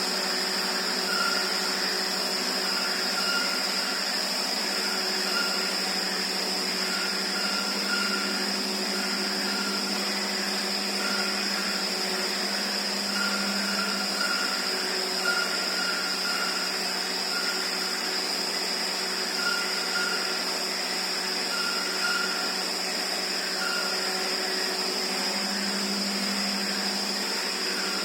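Cornering fatigue test rig running steadily, spinning a truck wheel under a bending load: a constant machine hum with a steady high whine and a fainter tone that keeps coming and going.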